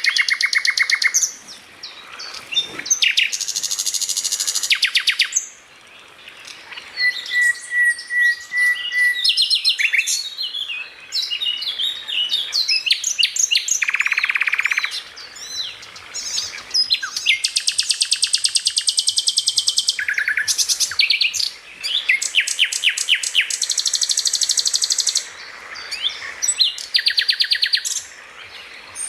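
Songbird singing a varied, rapid-fire song: fast trills and chattering phrases of quickly repeated notes, broken by short pauses, with one held steady whistle about a quarter of the way in.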